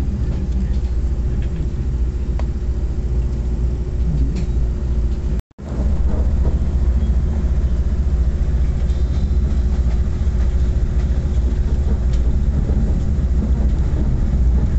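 Copper Canyon passenger train heard from inside the car as it rolls along: a steady low rumble of the wheels on the rails with a constant hum over it. The sound cuts out completely for a moment about five and a half seconds in.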